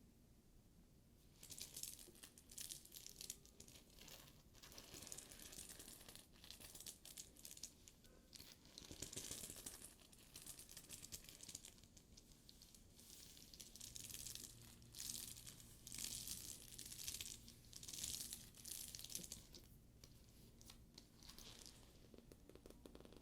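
Fingers rubbing and scratching over a studded faux leather bag: faint, scratchy rustling in repeated strokes of about a second each, with small clicks from the metal studs.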